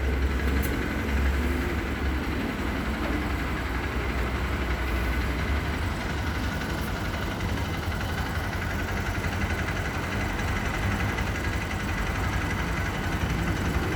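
Single-cylinder motorcycle engine idling steadily during an exhaust emissions test, with the gas analyser's probe in the tailpipe.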